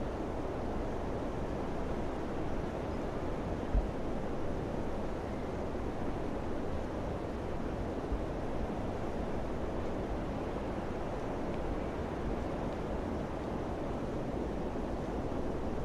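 Steady rushing wind with no let-up, and one brief low thump about four seconds in, like a gust hitting the microphone.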